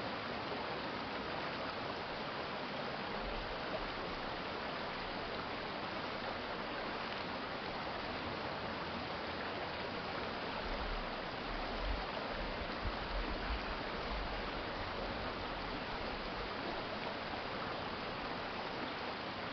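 Water of a city stream flowing over its bed, a steady rushing. A few low rumbles rise under it about ten to fourteen seconds in.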